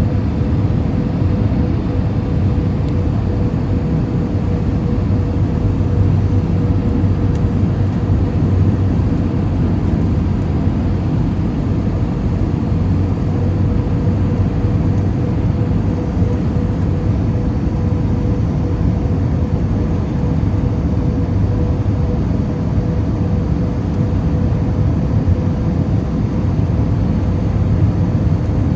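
Airbus A320 cabin noise heard from a passenger seat: a steady low rumble of engine and airflow, with a faint steady hum above it.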